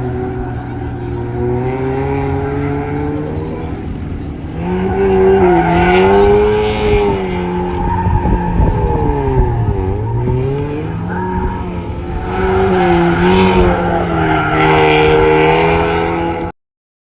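Drift car engine revving up and down repeatedly as the car slides, with tyre noise underneath. The sound cuts off suddenly near the end.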